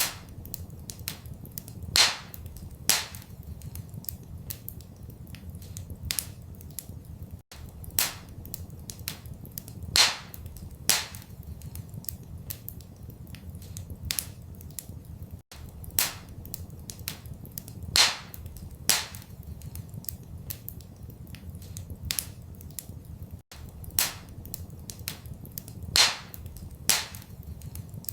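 Wood fire crackling and popping in a fireplace over a steady low rumble. Sharp pops come in pairs about a second apart, with smaller crackles between them. The same pattern repeats every eight seconds, as a looped recording, with a brief dropout at each seam.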